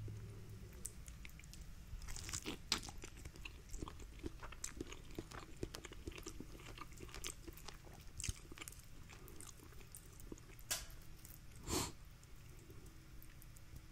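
A person eating rotisserie chicken with his fingers: close, quiet chewing with wet mouth clicks and smacks, and the meat being pulled apart by hand. One louder smack comes near the end.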